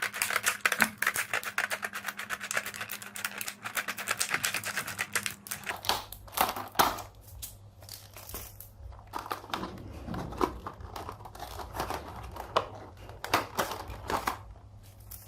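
Plastic toy packaging crinkling and crackling as it is handled and opened, dense for about the first six seconds and then in scattered crackles.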